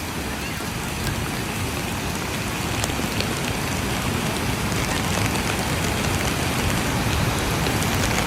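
Heavy rain falling steadily with scattered drop taps, over the low rush of Waimea Falls.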